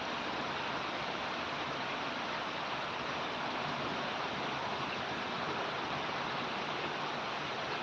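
Heavy rain falling in a steady downpour, an even hiss of rain without pause.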